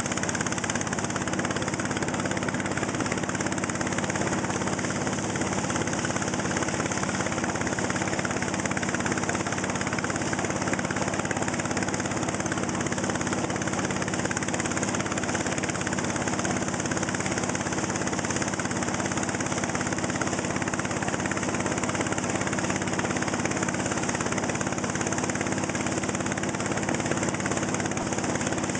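Motor boat's engine running steadily at a constant speed, with a steady hiss over it.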